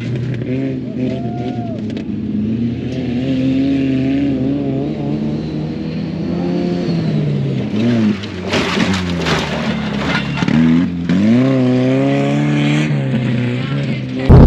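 Engines of off-road race trucks revving up and down on a dirt track, more than one engine at a time, their pitch rising and falling as the throttle works. A rushing, gritty noise comes in about eight and a half seconds in and lasts a couple of seconds.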